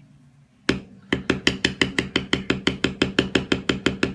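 A mallet tapping a metal leather-tooling stamp into leather: one knock, then a fast, even run of sharp ringing taps, about seven a second, the rapid tapping used for beveling or backgrounding.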